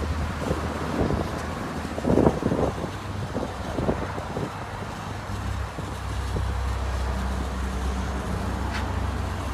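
Self-service car wash high-pressure wand spraying onto a car: a steady low hum under a hiss of spray, with a louder burst about two seconds in.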